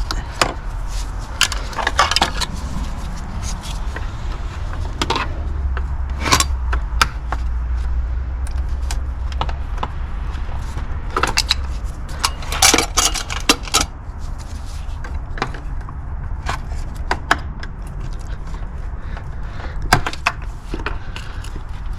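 Scattered metallic clinks and knocks of hand tools working on a car's starter, with a cluster of quick knocks about halfway through, over a steady low rumble.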